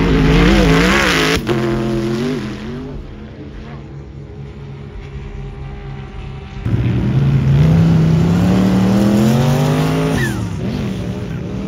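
Sand rail drag-car engines. One revs up and down hard. Then, after a cut, another launches and pulls hard, its pitch rising steadily for about three seconds before dropping sharply near the end as it comes off the throttle or shifts.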